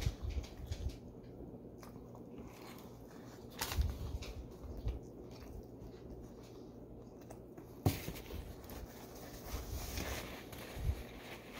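A person chewing a mouthful of chicken finger sub close to the microphone, with soft crunching and wet mouth sounds. About eight seconds in there is a sharp click, then a paper napkin rustles as it is wiped across the face.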